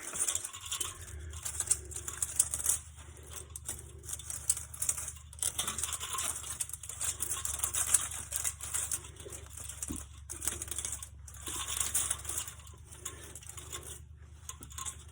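Thin aluminum condenser fins being pulled down off the copper tubing by a gloved hand, a dry crinkling, rattling scrape with many small irregular clicks. A low steady hum runs underneath.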